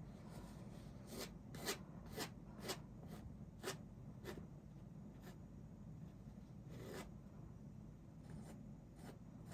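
Paintbrush strokes on canvas: a run of short, faint scratchy brushing strokes, irregularly spaced about every half second to a second, over a steady low room hum.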